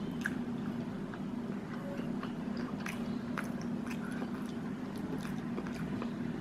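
A person chewing a mouthful of crispy chicken burger, with scattered short, wet mouth clicks, over a steady low hum.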